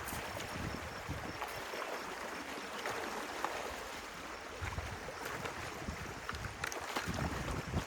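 Stream water running steadily, with wind rumbling on the microphone at times and a few faint clicks.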